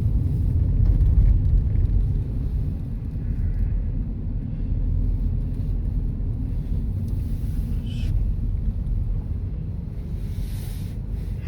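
Steady low rumble of a car driving along a road, heard from inside the cabin: road and engine noise with no change in pace.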